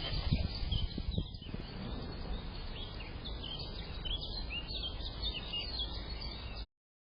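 Small birds chirping and twittering in quick short calls over a steady low background rumble, with a few dull bumps near the start; the sound cuts off abruptly near the end.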